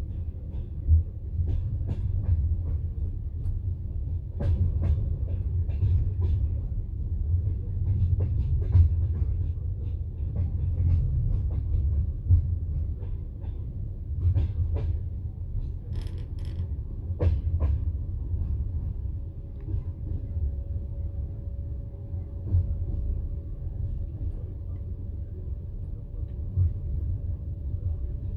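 Passenger train carriage running along the line: a steady low rumble of wheels on rail, broken by irregular clacks and knocks. A faint steady whine comes in about two-thirds of the way through.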